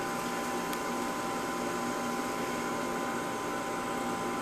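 Steady machine hum with a few constant tones over a noise haze, and a faint click about three-quarters of a second in.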